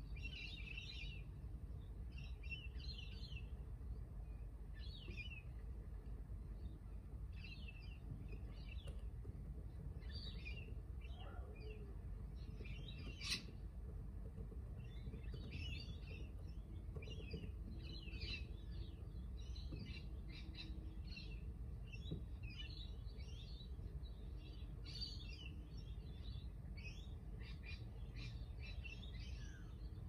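Several birds chirping and calling, many short chirps overlapping throughout, over a steady low background rumble. A single sharp click about thirteen seconds in.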